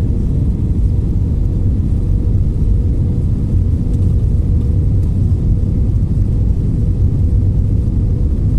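Airliner cabin noise as the jet lands: a steady, loud low rumble of engines and airflow, with a thin steady tone above it.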